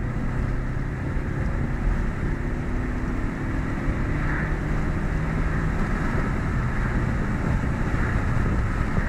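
VW Polo 6N's 1.4-litre eight-valve four-cylinder petrol engine pulling hard in a higher gear during a 0-100 km/h acceleration run, its note climbing slowly. Heavy wind and road noise lie over the engine.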